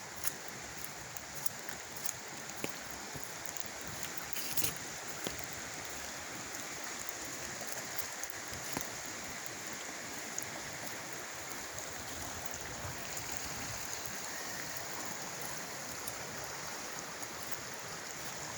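Creek water running steadily, with a few short clicks over it, the sharpest about four and a half seconds in.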